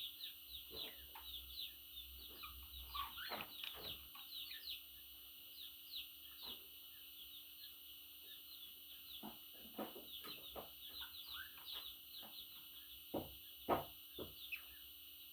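Budgerigars chattering: a steady stream of rapid, high chirps with scattered falling calls, and one louder call near the end.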